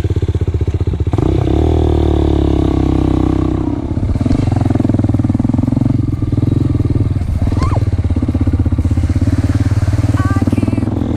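Motoland LT250 enduro motorcycle's single-cylinder engine running, its pitch rising and falling with the throttle and then holding steadier.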